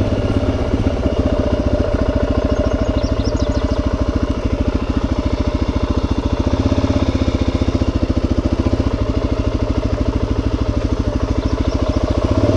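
Suzuki DRZ400's single-cylinder four-stroke engine ridden slowly at low revs, a steady even chug of firing pulses.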